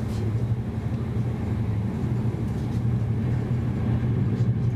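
Running noise of a VR Intercity train heard inside the carriage: a steady low rumble and hum.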